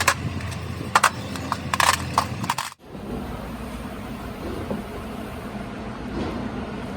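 Sharp metallic knocks and clanks over a steady low machine hum for nearly three seconds, then an abrupt cut to a steady, lower mechanical rumble.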